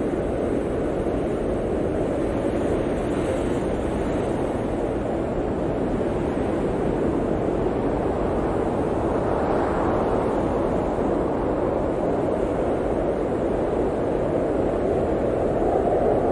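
Blizzard wind blowing steadily in a deep, even rush, swelling briefly in a gust about two thirds of the way through.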